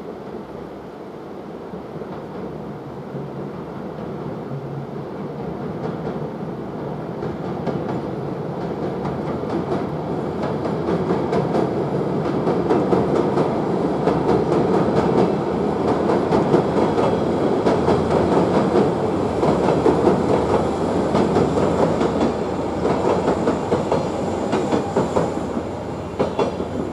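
Passenger train crossing a steel truss railway bridge: a rumble that builds steadily, with fast clickety-clack of wheels over the rail joints loudest midway through the crossing, then fading near the end as the train moves off.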